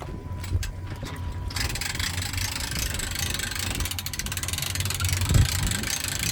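An engine idling with a steady low hum. About a second and a half in, a steady hiss joins it, and there is a brief louder thump about five seconds in.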